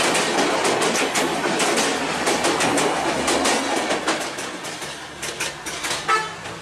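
Passenger coaches of an express train passing close by at speed, wheels clattering over the rail joints in a quick rhythm of clicks over a steady rumble. About four seconds in, the last car goes by and the sound falls away as the train moves off.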